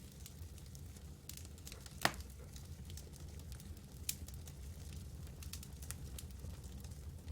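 Campfire wood crackling, with scattered small clicks and snaps and two sharper pops, the louder one about two seconds in, over a steady low rumble.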